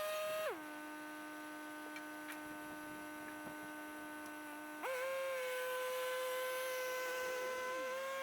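Machinery running with a steady whine. It drops sharply to a lower pitch about half a second in and steps back up to a higher pitch about five seconds in, as the machine's speed changes.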